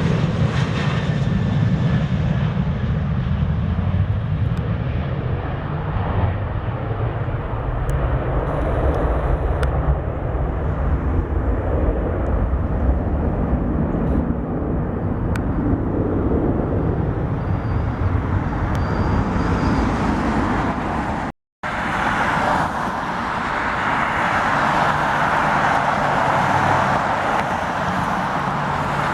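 Jet aircraft engine noise: a heavy low rumble that slowly fades over about twenty seconds. After a brief sudden dropout, a steadier, higher rushing noise takes over.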